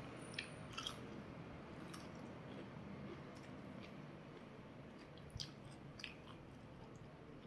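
A person quietly chewing soft food, rice and snakehead fish curry, with a few soft clicks as the food is picked up by hand and a spoon touches the dish.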